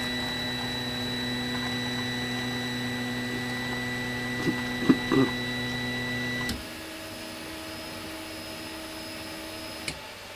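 Anet A8 3D printer's stepper motors whining steadily as the axes auto-home. About two-thirds of the way through, the whine changes pitch and gets quieter, then stops just before the end. A few short chirps come near the middle.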